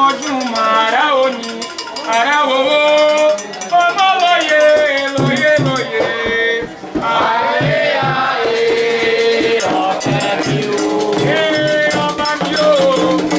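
Voices singing a Candomblé chant to a shaken rattle keeping a quick, even beat. Low drum beats come in about five seconds in.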